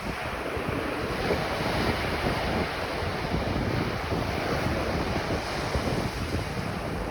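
Ocean surf washing onto a beach, a continuous wash of breaking waves with wind rumbling on the microphone.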